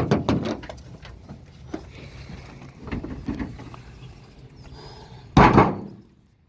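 Scattered knocks and clicks, then one loud thump about five and a half seconds in.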